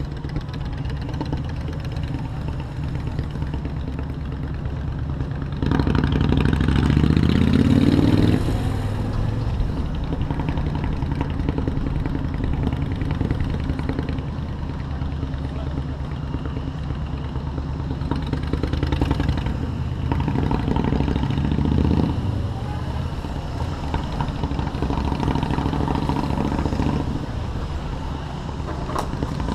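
Motorcycle engine running while riding through city traffic. About six seconds in it revs up, rising in pitch for a couple of seconds as the bike accelerates, then eases off. It picks up again for a few seconds around the twenty-second mark.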